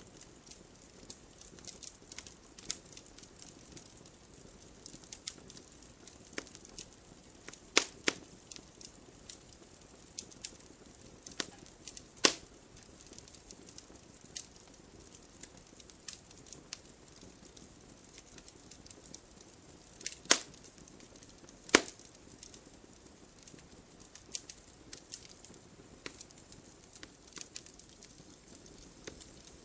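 Wood fire crackling: irregular small snaps and pops over a faint low hiss, with a handful of louder sharp snaps.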